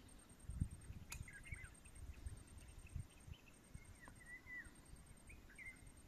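Faint bird chirps in three short bursts, over an uneven low rumble with soft thumps.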